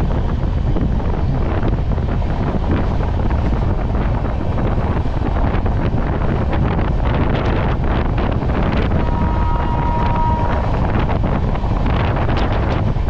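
Wind buffeting the microphone held out of the window of the 12822 Dhauli Superfast Express, over the steady rush of the train running at speed with many short clicks and knocks. About nine seconds in, a brief steady high tone sounds for about a second and a half.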